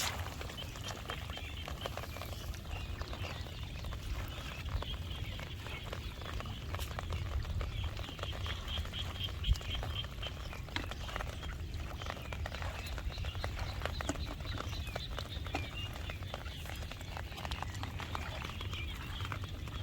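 Frogs calling in a wet field, runs of quick high chirps over a steady low rumble and scattered small clicks, with one sharp knock a little past halfway.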